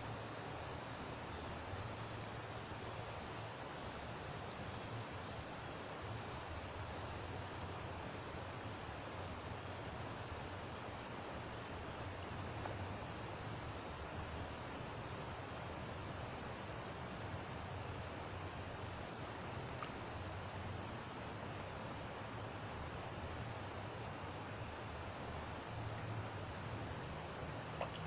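Steady, unbroken high shrill of an insect chorus over an even hiss.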